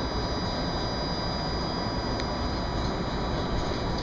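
Trenitalia double-deck electric train running slowly, a steady rumble with a faint high whine held on one pitch. A single light click about halfway through.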